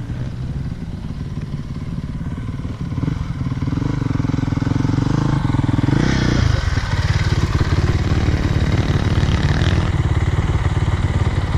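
Dirt bike engine running close by, revved up about five seconds in, then dropping back and running on louder.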